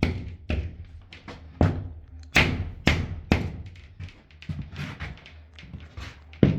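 A run of hammer blows knocking on drywall, several sharp thuds a second at an uneven pace, with background music underneath.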